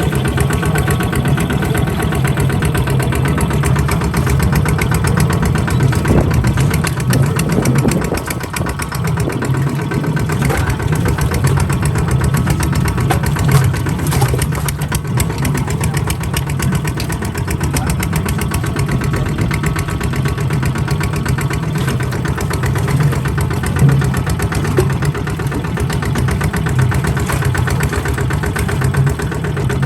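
Kubota RT140 DI single-cylinder diesel engine running steadily with a rapid, even chugging beat, dipping briefly about eight seconds in.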